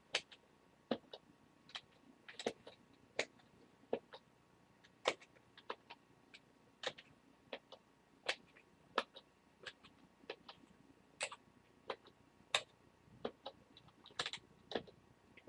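Faint, irregular clicking at a computer, keys or mouse buttons, about one or two clicks a second.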